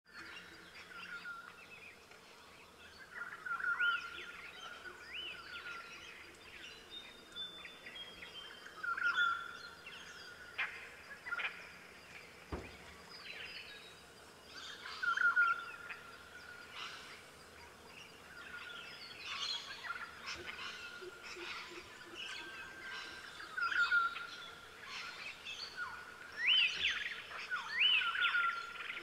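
Birds calling and chirping, one call coming back every few seconds: a short held note followed by quick rising and falling whistles.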